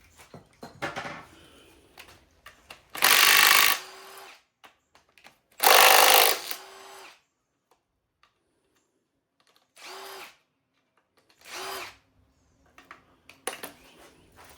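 Handheld power tool run in four short bursts during an engine teardown: two longer, louder runs, then two shorter, quieter ones, each winding down briefly after the trigger is released.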